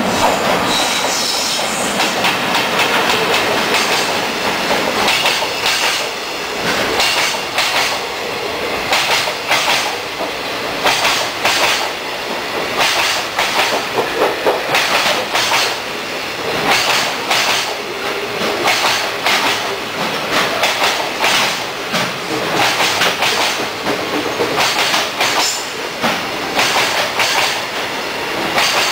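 Long JR Freight train of covered boxcars rolling past, its wheels clacking over the rail joints in a continuous, uneven rhythm. There is a brief high wheel squeal about a second in, as the electric locomotive passes.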